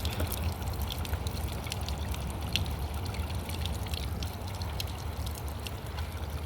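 Water from a park water feature pouring and splashing steadily, with scattered drips.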